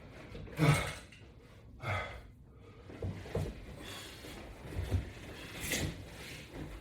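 A person breathing hard while exercising, with short forceful exhales about every second or two in time with the crunch repetitions.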